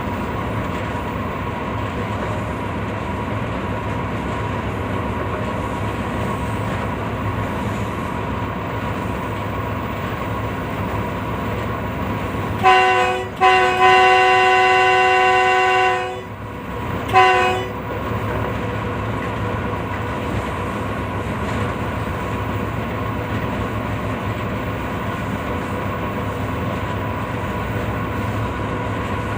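Train running with a steady rumble, and about thirteen seconds in the locomotive's multi-tone horn sounds: a short blast, a long blast of about three seconds, then a second short blast.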